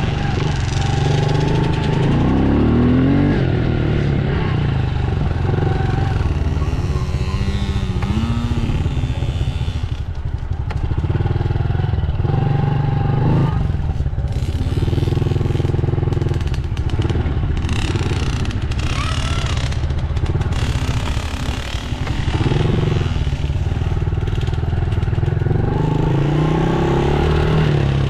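Dirt bike engine running, revving up and easing off again and again.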